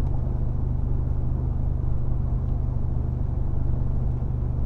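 Mercedes-AMG G63's twin-turbo V8 heard from inside the cabin, a steady low drone under power at freeway speed, mixed with road noise.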